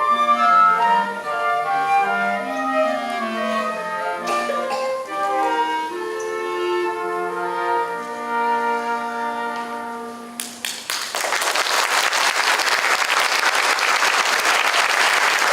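Primary-school concert band of woodwinds and brass playing, ending on a held chord about ten seconds in, then audience applause.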